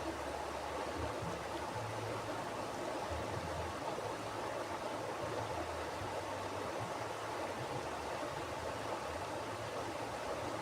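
Mountain river flowing steadily over rocks: an even rushing of water.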